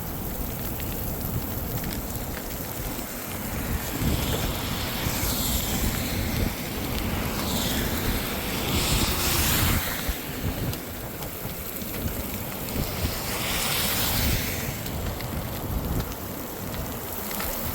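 Strong storm wind buffeting the microphone, with a steady rush that swells in several surging gusts.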